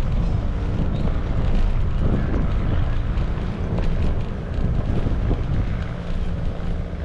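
Wind buffeting an action-camera microphone on a moving bicycle: a loud, steady low rumble.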